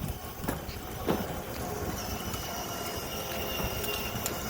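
A child's ride-on toy truck rolling along, a steady rumble of its plastic wheels and drive on the ground, with two short falling squeaks about half a second and a second in.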